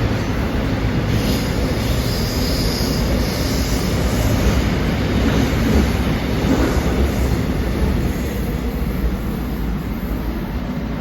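Seoul Subway Line 1 electric commuter train pulling out of the station, its wheels and running gear rumbling steadily on the track. A faint high wheel squeal comes in about two seconds in.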